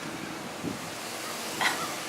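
Outdoor wind noise on the microphone, a steady hiss, with a brief faint sound about a second and a half in.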